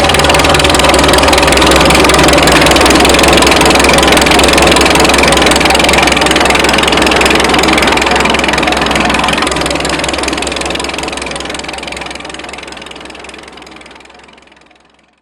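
1930 McCormick Deering 22-36 tractor's four-cylinder engine running steadily with a low, even beat, then fading away over the last several seconds until it can no longer be heard.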